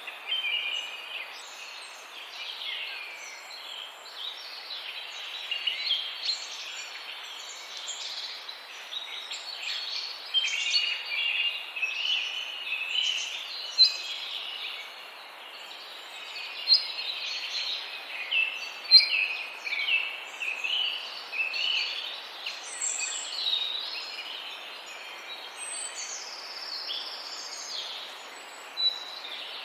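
A chorus of many birds chirping and calling, with short overlapping calls throughout over a steady background hiss.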